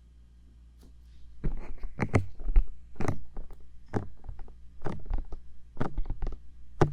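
Bare fingertips tapping on the silicone ears of a 3Dio binaural microphone: quick clusters of taps, about one cluster a second, starting about a second and a half in, each with a deep thud close to the mic.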